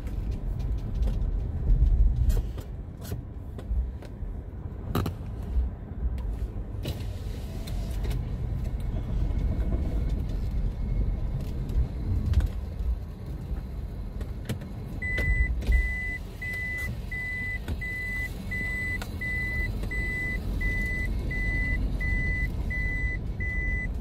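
Vehicle engine running with a steady low rumble and a few knocks early on. About two-thirds of the way in, a high electronic warning beep starts, repeating about twice a second.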